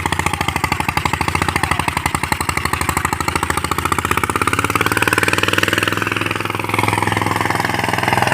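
Mahindra Yuvraj 215 NXT mini tractor's single-cylinder diesel engine running steadily with a rapid, even chugging, its tone shifting a little about two thirds of the way through.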